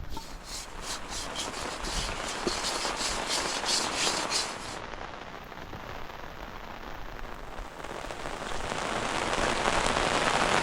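Rain falling, with a rapid crackle of drops striking a surface through the first half. After that it becomes a smoother, steady hiss that grows louder toward the end.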